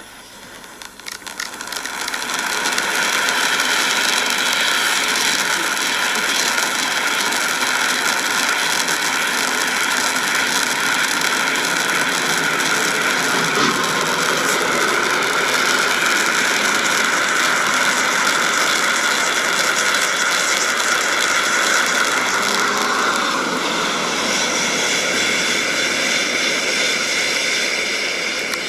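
Firework fountain spraying: a loud, steady hiss with fine crackling. It builds up over the first couple of seconds as the fountain catches, and its tone changes near the end.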